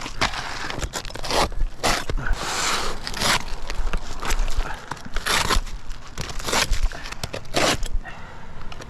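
Irregular scraping, crunching and tearing of roofing work being done by hand, a string of sharp strokes with a few longer rasping scrapes.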